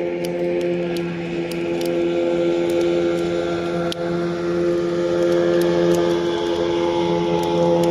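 An engine running at a steady speed, its drone holding an even pitch, with faint scattered clicks over it.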